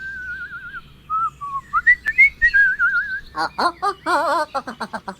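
Whistled tones: a warbling trill, then short rising and falling notes, then a quick run of higher wavering chirps from about three seconds in.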